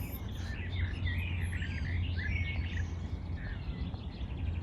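Several small songbirds chirping and trilling, busiest in the first three seconds and thinning toward the end, over a steady low rumble.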